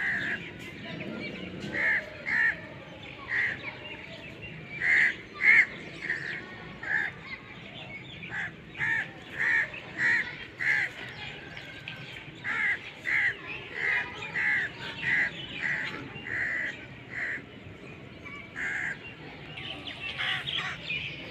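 A bird calling, with about twenty short, harsh calls in irregular runs of roughly two a second, broken by short pauses.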